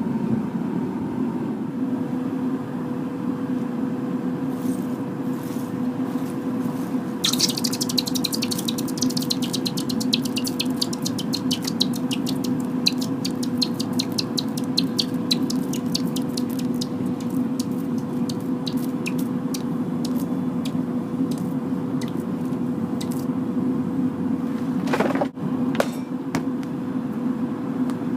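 Forced-air propane furnace burner running steadily with a low rush and a steady hum. From about seven seconds in, a fast run of sharp crackles as molten aluminum drips into the water, thinning out to scattered pops near the end.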